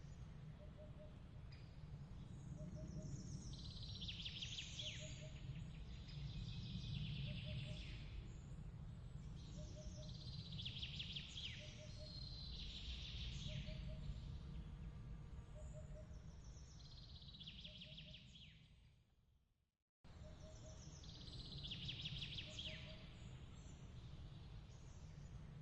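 Small birds twittering in short, falling, trilled phrases every couple of seconds over a steady low rumble, with a faint low double pip repeating about once a second. About three-quarters of the way through, everything fades out and then cuts back in abruptly, the seam of a looped ambience recording.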